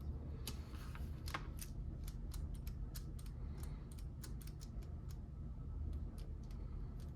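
Small plastic Lego pieces clicking and snapping as they are handled and pressed together, in quick irregular clicks, over a steady low hum.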